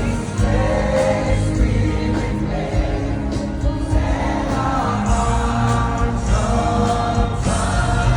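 Live gospel worship music: a choir singing long held notes over a band with a steady, pulsing low end.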